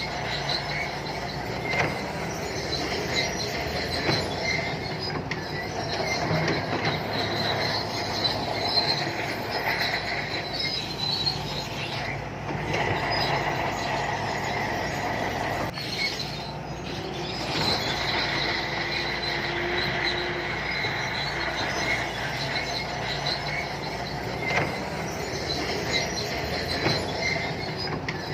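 Crawler bulldozer working: its diesel engine runs steadily while its steel tracks squeal and clank as it moves.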